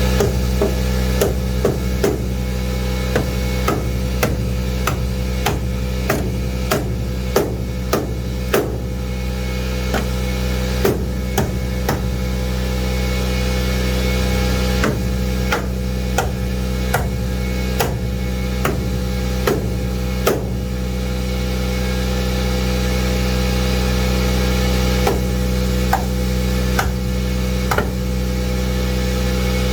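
Hammer blows on sheet metal, one to two a second in irregular runs, thinning to a few scattered strikes after about twenty seconds, over a steady engine idle. The blows fold the cut wheel-well metal back for tire clearance.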